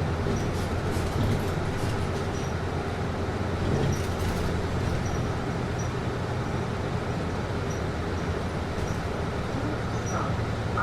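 Steady whooshing hum of a city bus's air conditioning, heard inside the cabin over the low drone of the running bus, with a few faint rattles.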